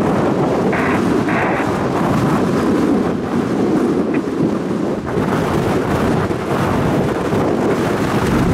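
Strong wind buffeting the microphone: a loud, steady, even rumble with no clear pitch.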